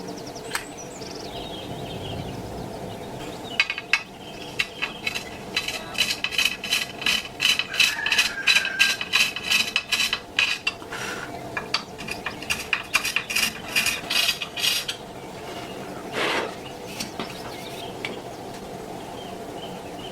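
A rapid run of sharp metallic clicks and clinks, several a second, like metal parts being tapped or knocked together; it starts a few seconds in and stops about three-quarters of the way through, followed by one louder knock.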